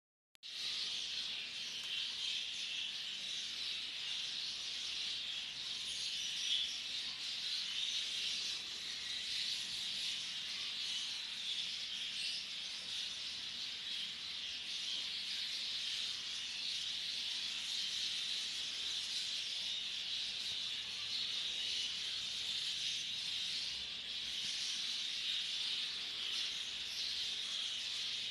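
A flock of exhibition budgerigars chattering and chirping without pause, a dense high-pitched twitter of many birds at once.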